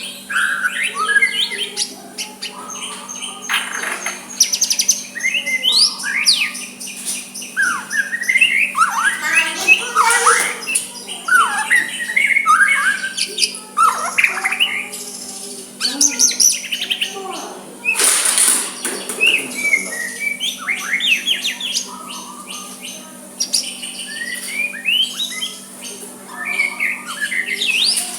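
White-rumped shama (murai batu) singing a long, varied song of quick whistles, rising and falling glides and chirps, with hardly a pause. It is the soft style of song kept for drawing rival shamas into answering. A short burst of noise comes about two-thirds of the way through, over a faint steady hum.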